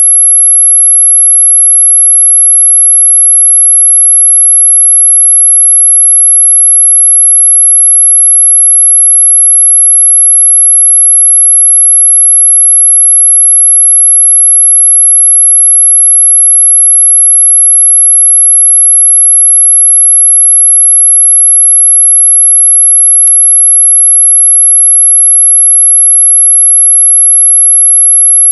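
A continuous electronic sine tone, very high-pitched and loud, held at one unchanging pitch. It is played as an anti-mosquito 'ultrasonic' repellent sound, though it sits within hearing range.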